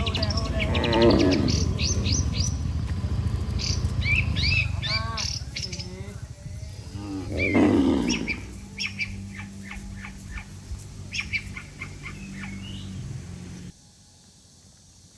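Cattle mooing, two loud low calls about a second in and near eight seconds in, over many small birds chirping. A steady low rumble underneath stops abruptly near the end.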